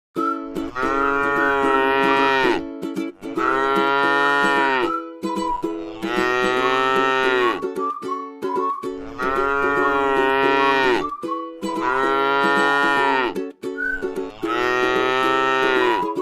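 Cow mooing: six long moos in a row, each lasting a second and a half to two seconds, with short gaps between them.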